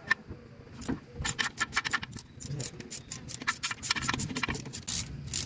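Ratchet wrench with an 8 mm socket clicking in quick runs, undoing the bolts that hold a pickup's driveshaft; the rapid clicking starts about a second in.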